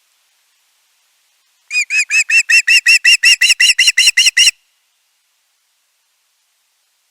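A bird calling in a rapid series of about seventeen short, evenly spaced notes lasting nearly three seconds.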